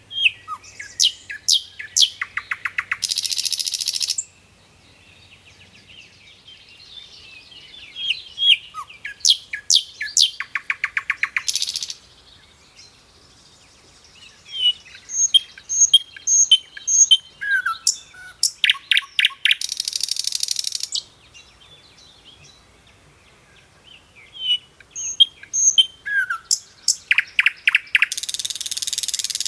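Songbirds singing: four bursts of sharp chirps, each ending in a fast buzzing trill, coming about every eight seconds.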